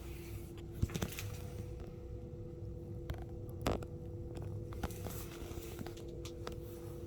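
ThyssenKrupp META-R2-B elevator: a steady two-note hum with scattered clicks and knocks, the loudest a knock a little after three and a half seconds in.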